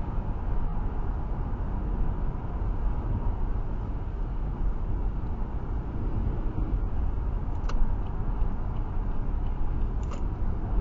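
Steady road noise inside a car cabin at motorway speed in heavy rain: a low rumble from tyres and engine with a spray-like hiss. Two faint ticks come late on.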